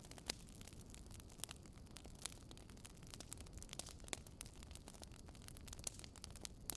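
Bonfire crackling: irregular sharp pops and snaps of burning wood, a few of them louder, over a faint, steady low rush.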